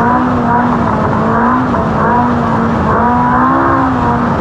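Ultra4 race car's engine running hard under load, its pitch dipping and rising a little with the throttle, over a loud steady rush of noise.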